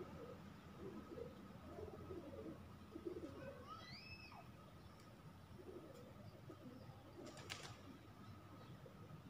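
Faint bird calls over a quiet riverbank: soft low cooing notes scattered throughout, and one rising whistled call about four seconds in. A brief crackle comes about three-quarters of the way through.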